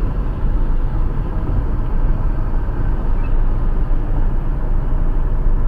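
Steady road and tyre noise with a low rumble, heard inside the cabin of a silver Toyota RAV4 driving at highway speed.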